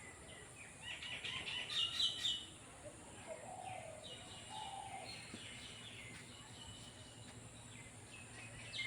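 Small birds chirping, quick runs of short high notes in bursts, loudest about a second or two in and again near the end, with a fainter lower warbling call in the middle.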